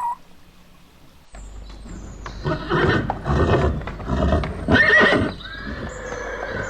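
A horse neighing. It starts about a second and a half in, with loud calls in the middle and a fainter drawn-out call near the end.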